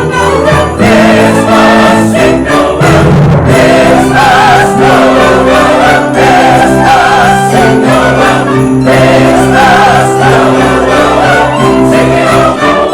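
Choir singing with an orchestra in a Christmas piece, with jingle bells shaken in a steady beat over sustained notes.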